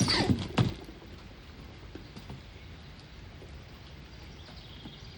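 A brief scrabbling clatter of knocks and scrapes in the first second, plausibly squirrels scrambling close by. After it comes a steady patter of rain with faint bird chirps.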